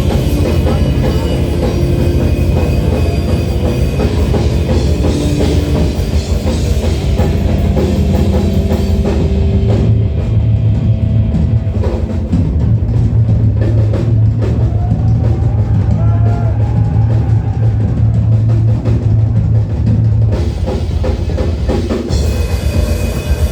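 Drum solo on a rock drum kit, with rapid bass drum and tom hits and crashing cymbals. From about ten to twenty seconds in, the cymbals drop out and a steady low drone is heard under the drums; the cymbals come back near the end.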